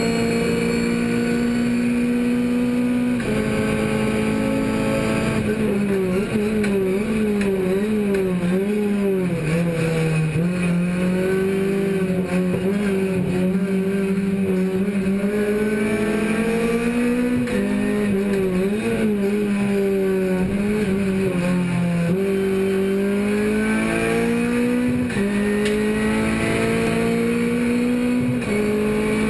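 Racing car's engine at high revs, heard from inside its stripped cabin. Its pitch climbs, then drops sharply several times at gear changes, wavering and dipping through the slower stretches.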